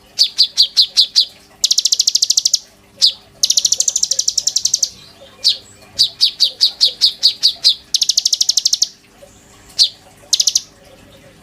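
Konin songbird singing loud, high phrases. Fast buzzy trills about a second long alternate with quick runs of five or six separate chirps, with short pauses between phrases.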